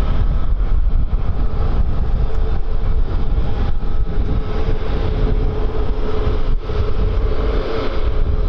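Jet airliner engines running with a steady whine that grows stronger about five seconds in, under heavy wind buffeting the microphone.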